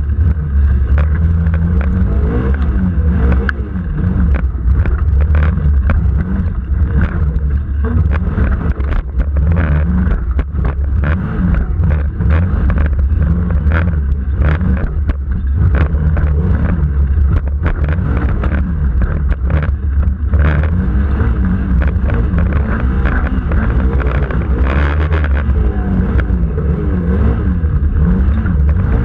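Off-road vehicle engine running under load, heard onboard, its revs rising and falling again and again as it is driven through the course, with frequent knocks and clatter from the vehicle over rough ground.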